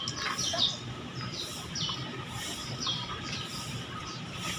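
Small birds chirping: short, high chirps in little groups, repeating every second or so over a steady outdoor background hum.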